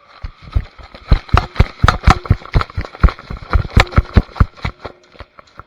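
A rapid, irregular series of sharp clacks and knocks, several a second, starting suddenly and thinning out near the end.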